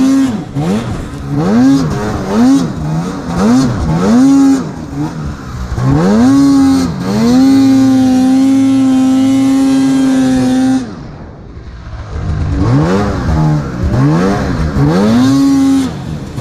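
Arctic Cat snowmobile engine revved in quick throttle blips, then held at high revs for about four seconds. Around the middle the throttle is let off and the revs drop away, then quick blips start again.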